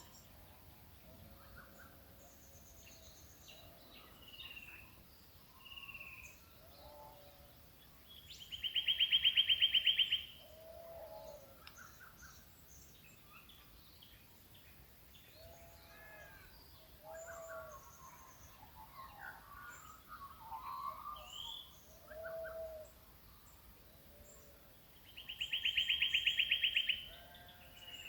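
Early-morning chorus of several birds calling in the Australian bush: many short calls and chirps, with a loud, fast pulsing trill lasting about two seconds that sounds twice, about eight seconds in and near the end.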